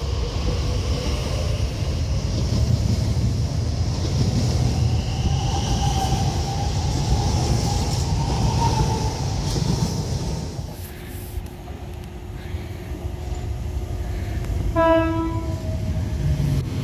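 Elizabeth line Class 345 electric train pulling out of the platform: rumble from the wheels and rails, with a faint whine from the traction motors rising in pitch. Later, an approaching Class 345 sounds one short horn blast near the end.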